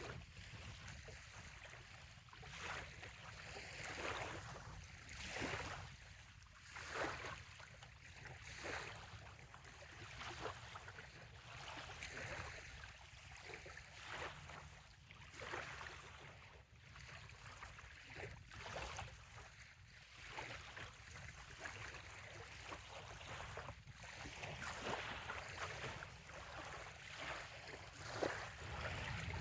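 Small bay waves lapping on a sandy shore, with irregular soft washes every second or two over a steady low rumble.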